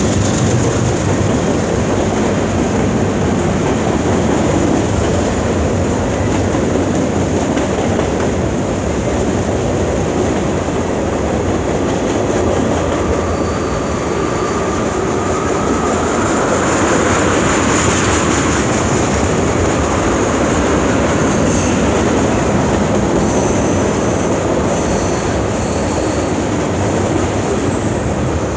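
Freight cars of a long CN freight train rolling past: a steady, loud rumble and clatter of steel wheels on rail. A faint rising wheel squeal comes in around the middle.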